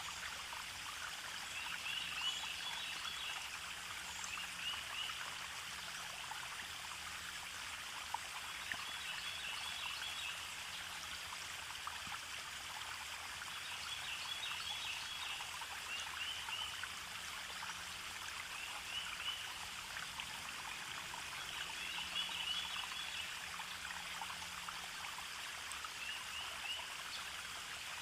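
Water flowing and trickling in a stream, a steady rushing hiss. A short high trill of chirps comes again every few seconds over it.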